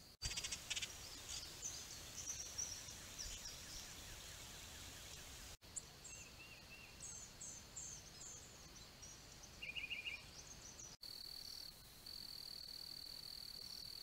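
Wild birds chirping and singing in short high phrases, with a quick trill about ten seconds in, across back-to-back trail-camera recordings that switch abruptly at sudden cuts. For the last few seconds a steady high-pitched whine, broken once, replaces the birds.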